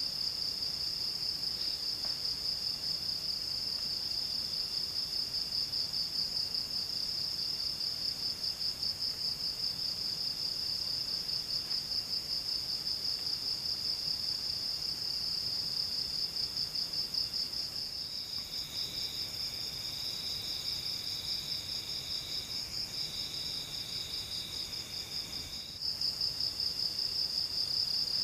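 Forest insects trilling: a steady, rapidly pulsing high trill, with a second insect calling in short repeated phrases beneath it. About two-thirds of the way through, the main trill drops away and a lower, buzzier insect call takes over for several seconds, before the high trill returns abruptly near the end.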